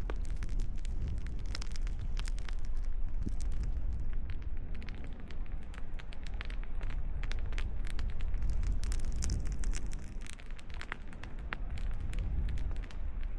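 Small wood campfire of scrap lumber crackling with frequent sharp pops, over a low rumble of wind on the microphone.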